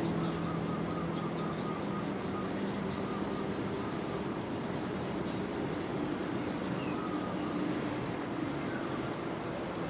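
A vehicle's engine hum, fading away over the first two seconds, over a steady rush of gusty wind.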